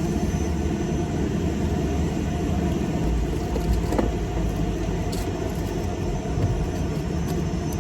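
Car wash vacuum running steadily, a constant motor drone and rumble as the interior of a car is vacuumed, with a few faint clicks.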